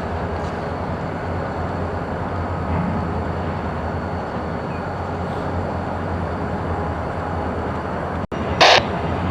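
Steady rumble of a train working in a rail yard during switching moves. Near the end a short, sharp burst of noise cuts in.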